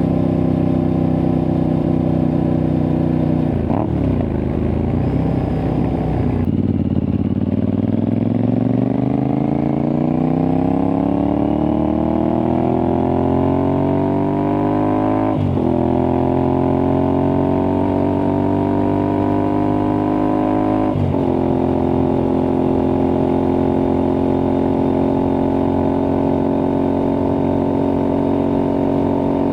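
Aprilia Tuareg 660 parallel-twin engine through an aftermarket Akrapovic-style exhaust, ridden on the road. It runs steadily, changes note at about 4 seconds, and drops at about 6 seconds. It then accelerates with a steadily rising pitch, with upshifts about 15 and 21 seconds in, and settles into a steady cruise.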